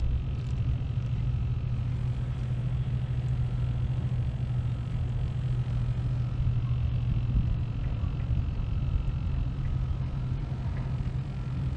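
Steady low hum and rumble of distant industrial machinery, unchanging throughout.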